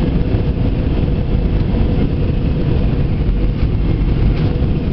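Steady noise of an Airbus A320 in flight, heard from inside the cabin: an even, loud rumble of engines and airflow, with a faint steady hum over it.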